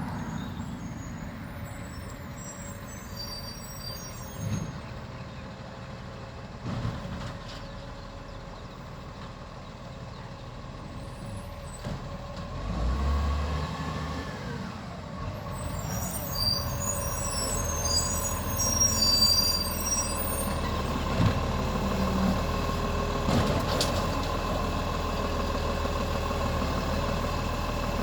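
Garbage truck running, its engine louder from about halfway through with a steady whine added, and a few sharp knocks along the way.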